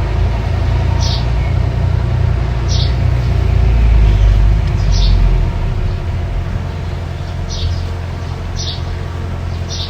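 Mini bulldozer's diesel engine running with a steady low rumble that swells about four seconds in and then eases off. A bird repeats a short high chirp every second or so over it.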